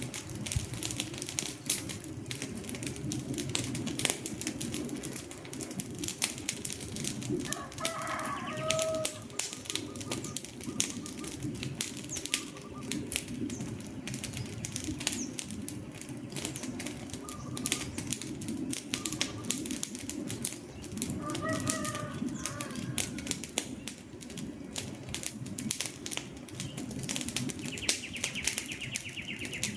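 Wood fire burning, with dense irregular crackles and pops over a low, steady rush. A few short bird calls sound over it, about eight seconds in and again about twenty-one seconds in.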